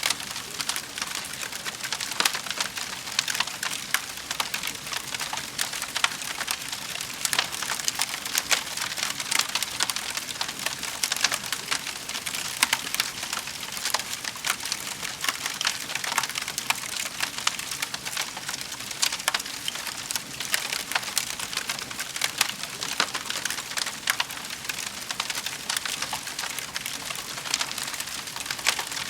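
Wood fire crackling in a fireplace: frequent sharp pops and snaps over a steady hiss.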